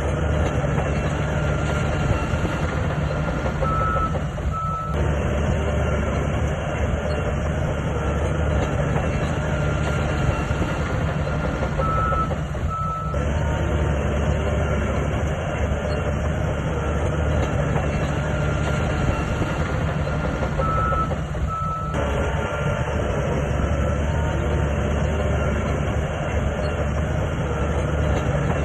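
Heavy diesel engine of earthmoving machinery running steadily under work, with short reversing-alarm beeps. The engine note shifts about every eight or nine seconds.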